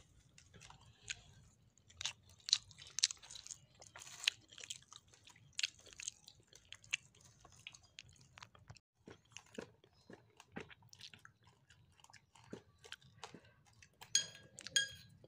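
Close-up eating sounds: chewing and crunching of grilled fish, made up of irregular small smacks and crackles. Near the end a spoon clinks a few times against a plate.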